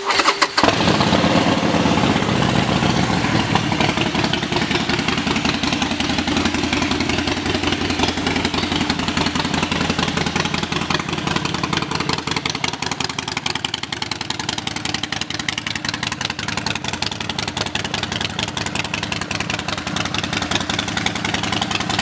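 A Harley-Davidson Sportster 72's 1200 cc air-cooled V-twin is started through its aftermarket Vance & Hines exhaust. It catches within about the first half second, then idles steadily with a loud, pulsing exhaust note.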